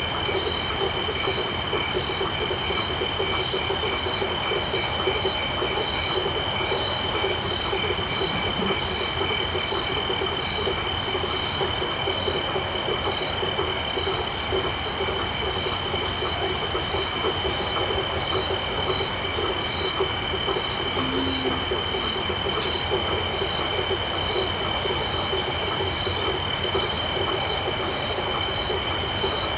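Night chorus of crickets and frogs: several insects keep up continuous high-pitched trills and pulsing chirps, over a fast, rhythmic pulsing of lower frog calls.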